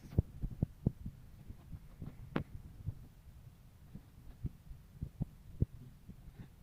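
Irregular dull knocks and taps on wood, about a dozen, during work on a cricket bat, with one sharper tap a little over two seconds in.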